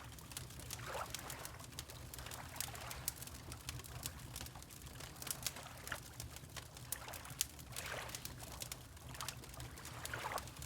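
Water lapping in a few soft sloshes, mixed with a crackling wood fire giving many sharp pops over a steady low noise.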